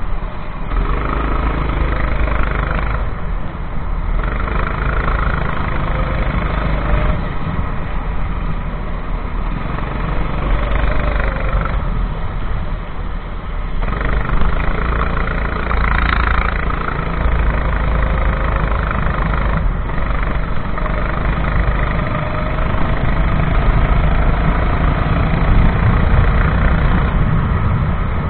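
Racing kart engine running hard through a lap, its level and pitch rising and falling as it accelerates and backs off, with a slow rising pull late on.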